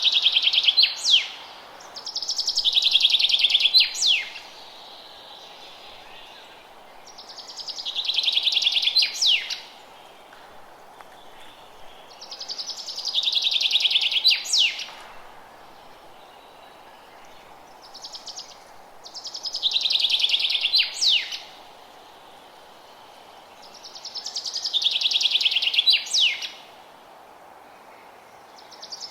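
A songbird repeating the same song about every five to six seconds. Each song is a fast trill of about two seconds that ends in a few quick, sharp down-sweeping notes. Under it runs a steady low hiss.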